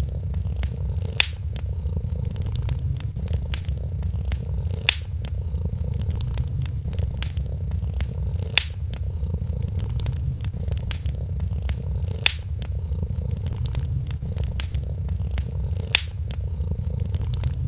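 A cat purring steadily and closely over the crackle of a wood fire. Small crackles and clicks run throughout, and a sharper pop comes about every three and a half seconds.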